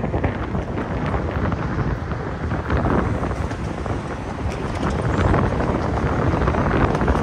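A train passing close by: a steady rush of wheel and rail noise with scattered clicks, and wind buffeting the microphone.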